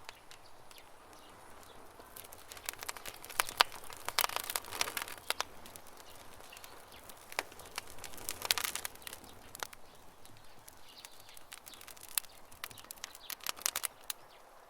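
Campfire of burning wood crackling, with irregular clusters of sharp pops and snaps over a low steady hiss, busiest about two to six seconds in, again around eight seconds and near the end.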